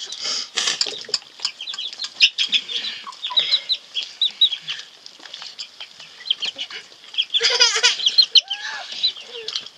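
Birds chirping: a steady run of short, high chirps, with a busy burst of rapid calls about seven and a half seconds in.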